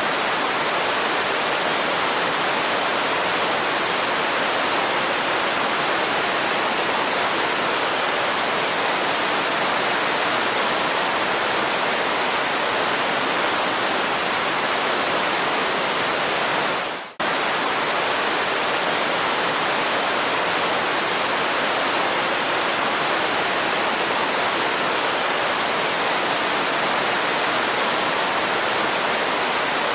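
Waterfall: falling water making a steady, even rush. A little past halfway the sound dips away for a moment and cuts straight back in.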